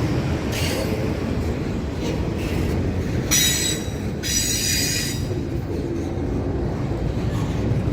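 Train rolling past with a steady low rumble, its wheels squealing in high, multi-tone bursts: a short squeal about half a second in, then two louder squeals around the middle.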